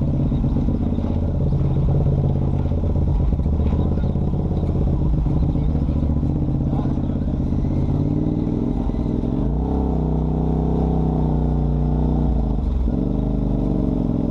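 Off-road vehicle's engine running while driving along a trail. Its pitch drops and climbs again about two-thirds of the way through, and once more near the end.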